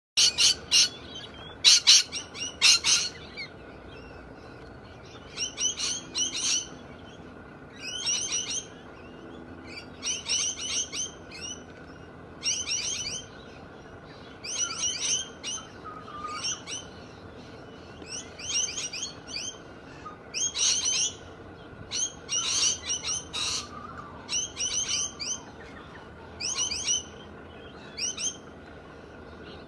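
Galahs calling: clusters of three or four short, shrill, high-pitched calls, repeated about every two seconds. The loudest bursts come in the first few seconds.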